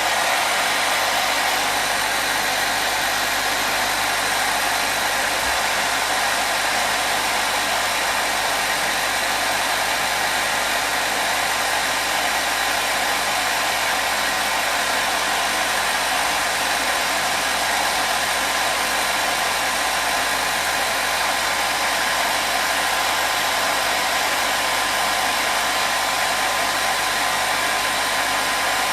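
Hair dryer running continuously: a steady airflow rush with a faint motor hum, unchanging throughout, used as white noise to soothe a colicky baby.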